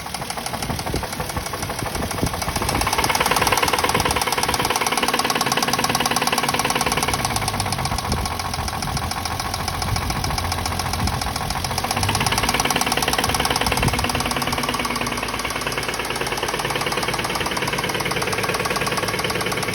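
Toyota Mark II engine running with a fast, regular knocking from inside the motor, the knock the owner is complaining about. It gets louder about three seconds in and again about halfway through.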